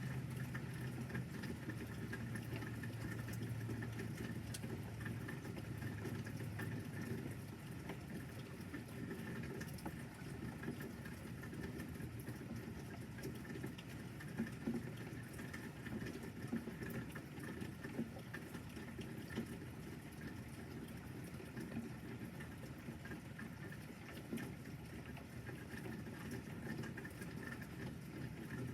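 Light rain pattering steadily, with a low hum that fades away over the first seven seconds or so and a few faint clicks.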